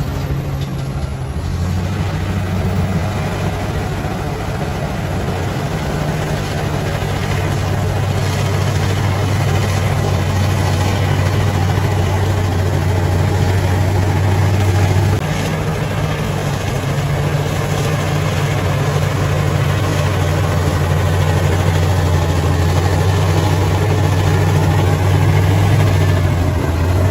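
Bulldozer's diesel engine running steadily, a low hum whose pitch shifts once about halfway through.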